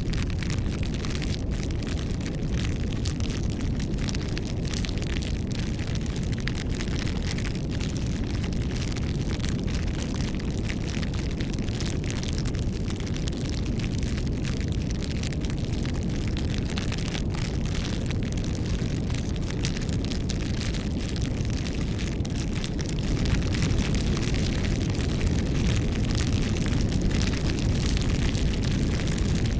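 Wood fire burning: a steady low rumble of flame under dense crackling and popping, growing a little louder about two-thirds of the way through.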